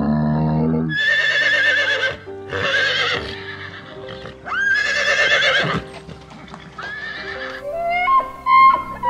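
A horse neighing four times, each whinny high and quavering and about a second long, the third opening with a quick rising sweep. A low falling call comes just before the first whinny, and plucked music notes play near the end.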